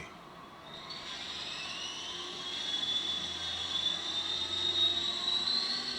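450-size RC helicopter running, a steady whine that rises in pitch and loudness from about a second in as the rotor spools up, then holds, edging higher near the end.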